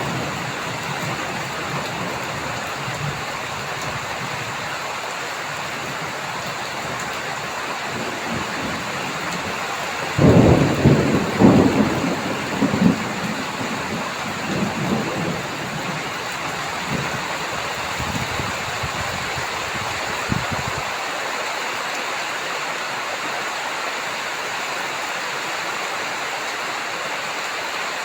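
Steady heavy rain with a roll of thunder that rumbles in about ten seconds in, loudest at first and dying away over several seconds.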